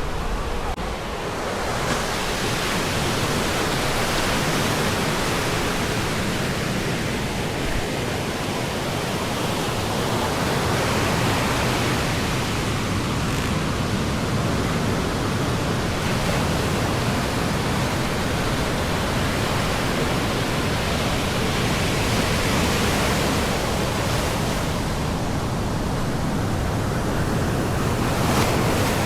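Ocean surf breaking on a sandy beach: a steady wash of noise that swells and eases every ten seconds or so as waves come in.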